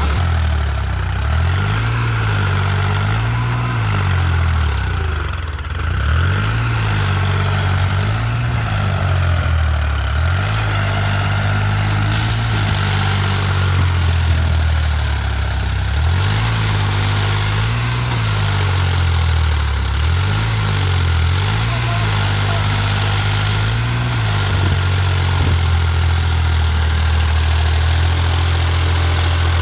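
Diesel tractor engine revving up and down over and over, about every two seconds, as it works to pull a trolley stuck in a wet field. It settles to a steady run near the end.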